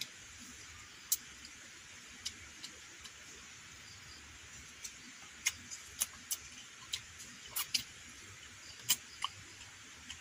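Irregular sharp ticks and clicks, about fifteen of them scattered unevenly, over a steady high hiss.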